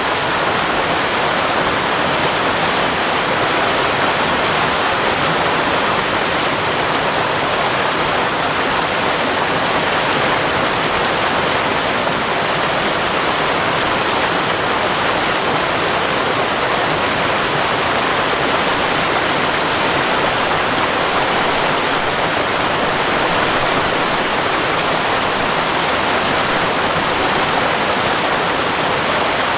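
Seasonal waterfall pouring down a rock face, a steady, unbroken rush of falling water.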